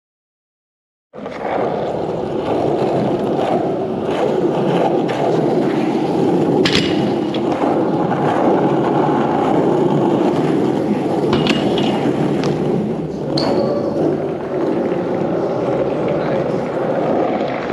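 Skateboard wheels rolling steadily on concrete, with a few sharp knocks from the board along the way.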